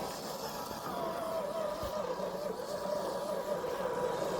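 FMS FJ40 RC crawler's electric motor and gears whining as it drives, the pitch wavering slightly with the throttle.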